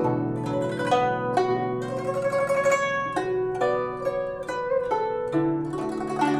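Guzheng (Chinese zither) playing a melody: a run of plucked notes that ring on, over held low bass notes.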